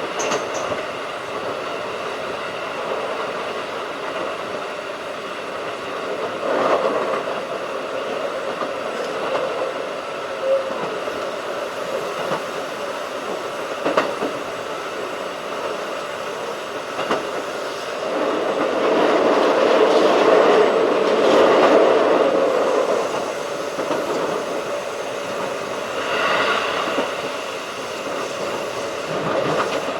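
Keikyu 1500 series field-chopper electric train running at speed, a steady rumble of wheels on rail heard from on board. A few sharp clicks come several seconds apart, and the noise swells louder for several seconds about two-thirds of the way through.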